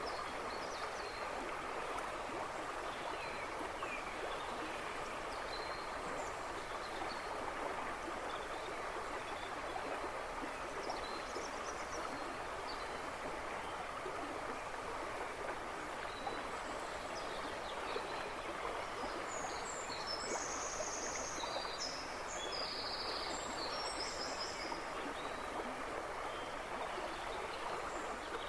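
River babbling and rushing steadily over its bed, with birds twittering in the background: scattered short chirps, and a denser, higher song phrase about two-thirds of the way through.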